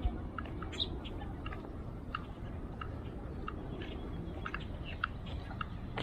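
Scattered short bird chirps, irregular and several a second, over a steady low rumble.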